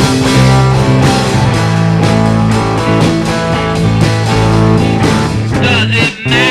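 Rock music playing: electric guitar with bass and drums, with a wavering high guitar line coming in near the end.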